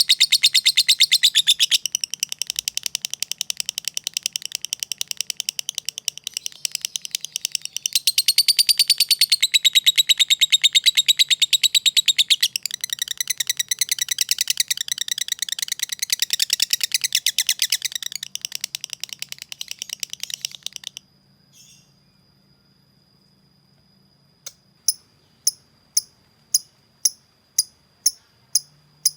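Lovebird singing a long, very rapid chattering trill, the long 'ngekek', which cuts off about two-thirds of the way through. Near the end there are regular high ticks, about two a second, over a steady high tone.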